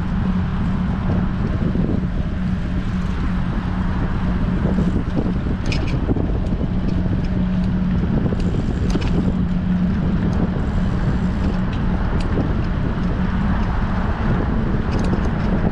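Wind rushing over an action camera's microphone on a moving bicycle: a steady low noise with a constant low hum underneath and a few faint clicks.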